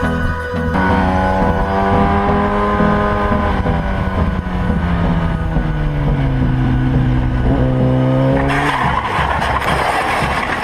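Motorcycle engine running at speed, its pitch drifting down and then rising again as the throttle changes. About eight and a half seconds in, a loud rough skidding noise takes over, typical of tyres sliding or a bike going down in a crash.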